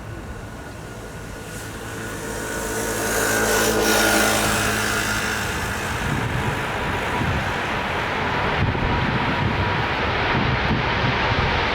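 Jet airliner's engines passing close by: a whine and rush that builds to a peak about four seconds in, then gives way to a steady loud rumble.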